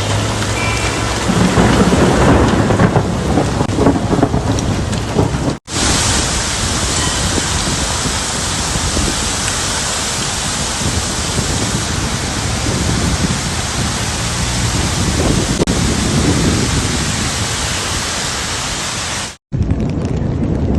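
Heavy rain pouring down in a steady, loud hiss, louder for a few seconds near the start, broken twice by very short cuts.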